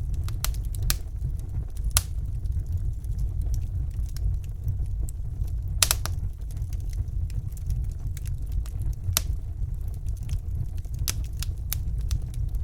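Wood fire burning in a fireplace: a steady low rumble of the flames, with sharp crackles and pops from the burning logs scattered irregularly through it. The loudest pop comes about six seconds in.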